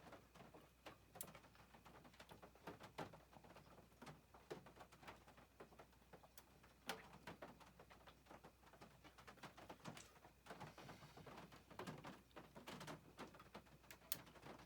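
Faint rain falling on the roof of a converted short bus, heard from inside as scattered, irregular taps and drips.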